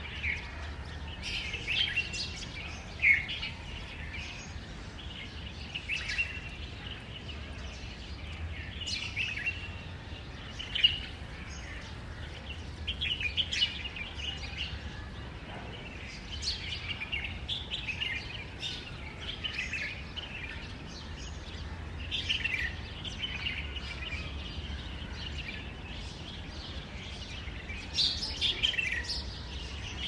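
Small birds chirping in short bursts every few seconds over a steady low hum, with one sharp click about eleven seconds in.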